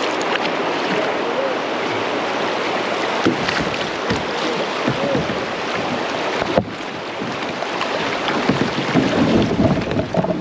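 Rushing whitewater around a small kayak running creek rapids: a steady loud rush of water with wind on the microphone, broken by a few sharp knocks around the middle.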